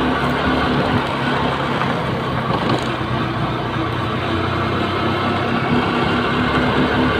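Honda New Megapro's single-cylinder engine running steadily while riding, under a steady rush of wind and road noise.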